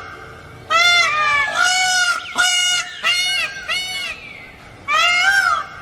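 Green peafowl calling: a run of about five loud calls in quick succession, each under a second, with a single call near the end after a short pause.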